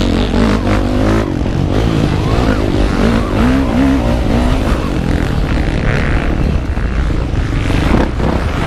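Motocross motorcycle engine running hard, its pitch rising and falling repeatedly as the throttle is worked through a practice lap.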